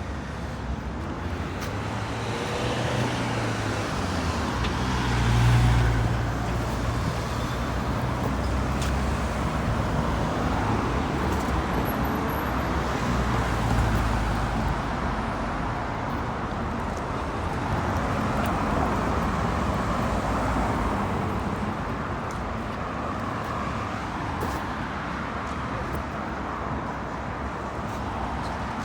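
Road traffic going by: a continuous stream of passing vehicles, with the loudest pass and a low rumble about five to six seconds in, and another swell near fourteen seconds.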